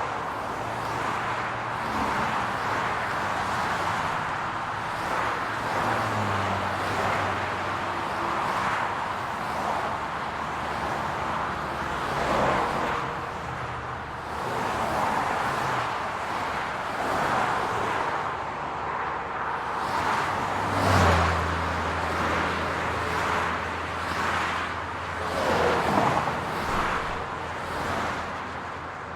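Steady car and road traffic noise with a low engine hum, swelling briefly a few times as vehicles pass. The loudest swells come about twenty seconds in and again about five seconds later.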